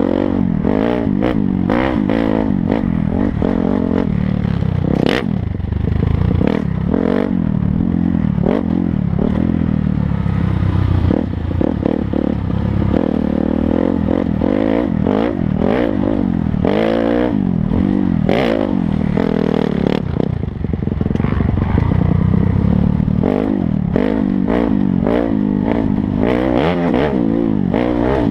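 Dirt bike engine revving up and down over and over while being ridden off-road, with frequent clattering and scraping knocks from the bike over rough ground.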